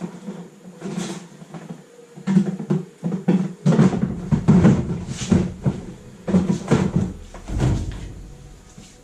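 Irregular knocks, clunks and clatters of metal parts and tools being handled while a classic Mini's engine is being taken out, busiest and loudest in the second half.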